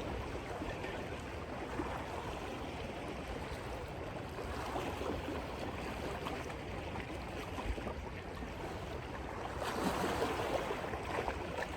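Steady wash of sea water and surf against the rocks, a little louder near the end.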